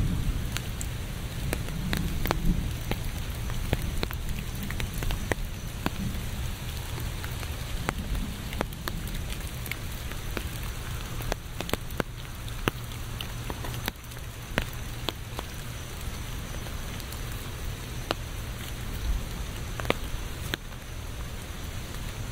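Steady rain falling, with many separate drops landing close by as sharp, irregular ticks over an even hiss, and a low rumble underneath.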